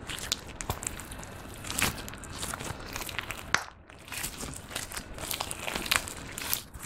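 Clear slime being squished and kneaded by hand, giving a run of irregular wet crackles and popping clicks, with a short lull about halfway through.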